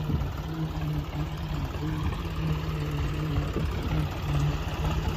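Tractor diesel engine running steadily, a low drone that pulses slightly.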